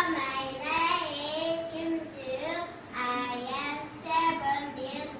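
Young children singing a song, with held notes and gliding pitch.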